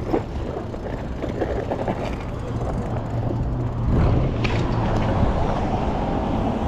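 Road traffic noise heard while riding among vehicles: a steady rumble of engines and tyres, growing louder about four seconds in.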